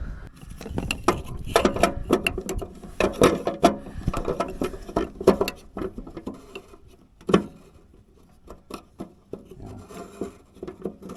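Irregular plastic clicks, taps and rattles as a bulb socket is worked into a tractor tail-light housing; the socket's locking ring is chewed up, so it won't lock in place.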